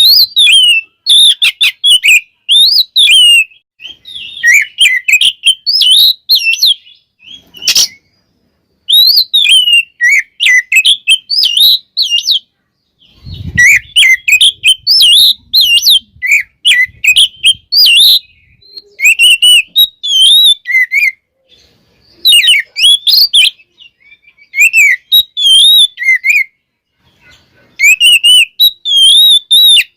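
Oriental magpie-robin (kacer) singing a long run of varied, quickly changing whistled and chattering phrases in bursts with short pauses. There is a sharp click about eight seconds in and a brief low thump about halfway through.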